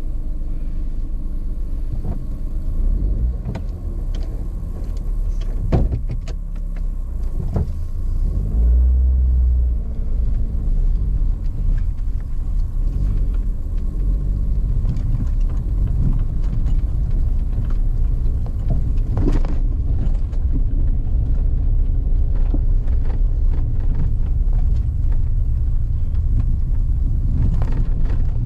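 Car driving along a forest road: steady engine and tyre rumble, the engine note rising and falling with the throttle, and occasional short knocks.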